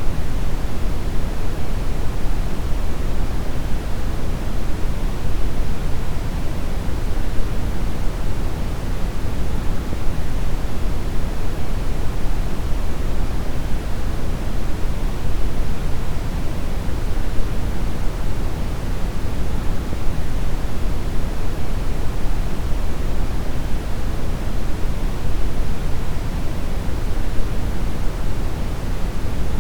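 Steady brown noise: a deep, even rushing hiss, strongest in the low end and fading off toward the top, with no change in level.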